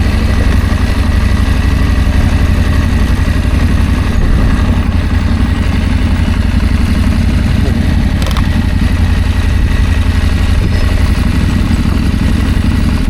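Adventure motorcycle engine running steadily while being ridden, under a strong steady low rumble of wind on the microphone.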